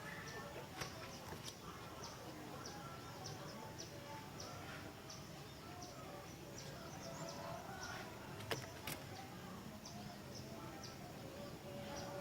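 Sooty-headed bulbuls calling back and forth, faint, with short high chirps repeating over lower whistled notes. Two sharp clicks come about eight and a half seconds in.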